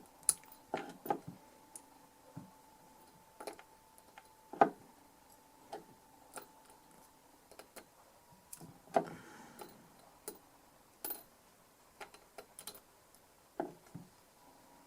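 Small metal screws being handled on a workbench: scattered, irregular clicks and light knocks.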